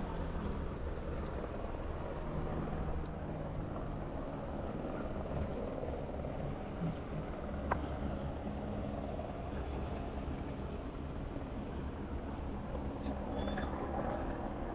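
Street ambience: the steady low rumble of motor traffic, with a single sharp click about halfway through.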